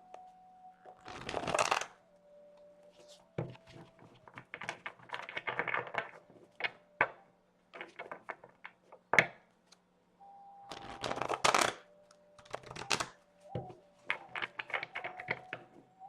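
A deck of Miracle Now affirmation cards being shuffled by hand: repeated bursts of rustling and snapping card edges, with sharp clicks between them.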